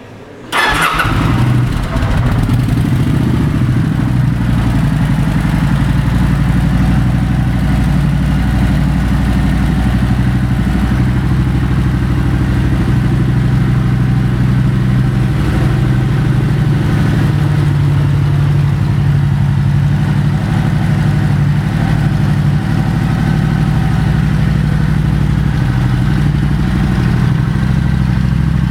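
Kawasaki Vulcan 900's V-twin engine starts about half a second in and settles into a steady idle.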